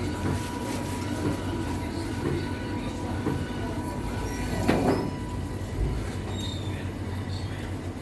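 Cafeteria background: a steady low hum from equipment with scattered clinks of dishes and a tray, and one louder clatter about five seconds in.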